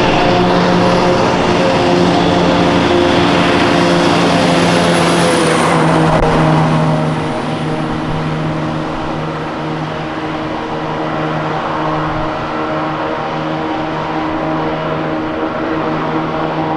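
Heavy military truck engine running steadily, a little louder for the first six seconds and then easing off slightly.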